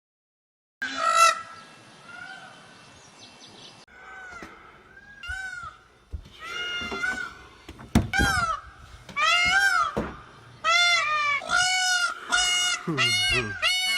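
Geese honking: one loud honk about a second in, then a run of short honks that come closer together and louder from about eight seconds in.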